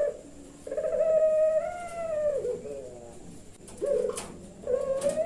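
A puter pelung dove cooing in long, drawn-out calls: a sustained coo for well over a second that bends down in pitch at its end, then a shorter one, and a third rising into a long held note near the end. A couple of sharp clicks are heard near the end.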